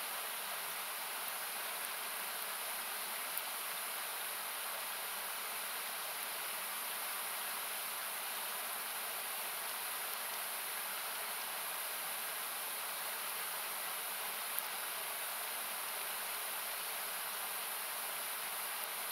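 Steady hiss-like rush of a river, thinned by equalizing so it sounds like noise, with a few faint pops from a wood campfire, clearest about three and a half and fourteen and a half seconds in.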